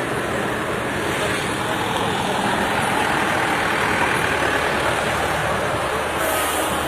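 Steady road-vehicle noise, with voices mixed in.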